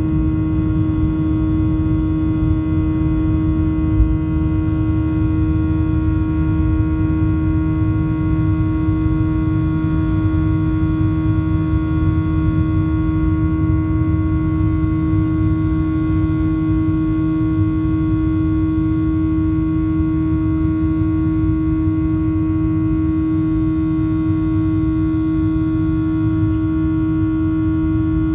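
Steady drone of a Boeing 737-800's CFM56 engines heard inside the passenger cabin in flight: a constant low rumble with a steady hum and fainter whines above it, unchanging throughout.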